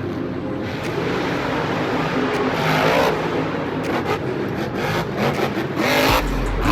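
Monster truck engine running loudly and revving, with its pitch rising and falling, over arena noise.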